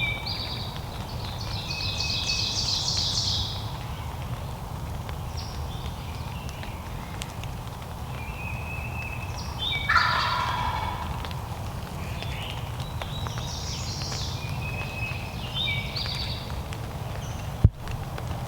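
Wild turkey tom gobbling: one loud, rattling gobble about ten seconds in, falling in pitch, with smaller bird calls before and after it. A single sharp click comes near the end.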